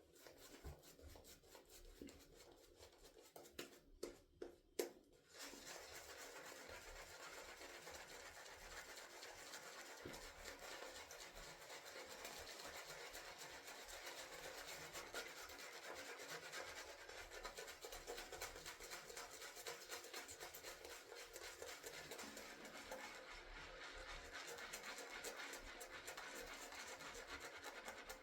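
Synthetic-fibre shaving brush working tallow-based shaving soap into lather, a faint steady wet scratching and swishing. There are a few light taps in the first few seconds before the steady brushing sets in.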